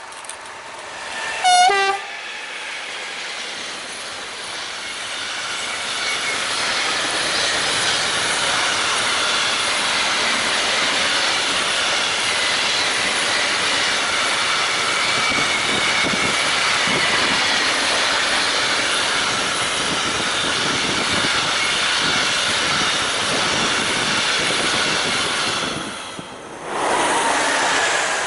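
Freight train hauled by two Traxx electric locomotives sounding a short horn blast about two seconds in, then its container wagons passing close by with steady wheel and rail noise. Just before the end a second electric locomotive passes close by, after a brief lull.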